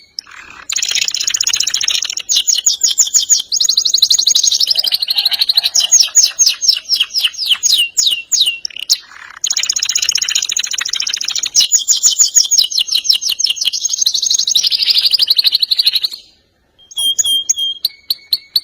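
Domestic canary singing long rolling trills: rapid strings of repeated notes, some sweeping downward in pitch, in two long phrases with a brief break between them, then a few short chirps near the end.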